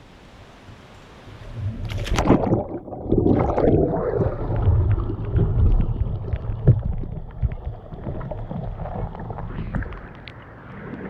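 A kayak dropping over a small waterfall: a sudden loud splash about two seconds in, then several seconds of muffled rushing, churning water around the hull with scattered knocks, fading near the end.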